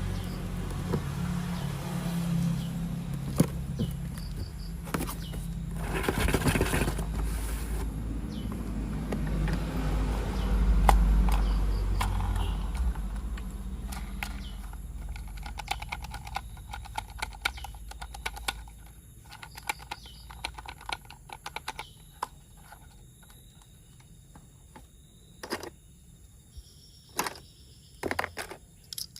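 Handling noise: scraping and rustling with knocks over a low rumble, which fades about halfway through, followed by many small scattered clicks.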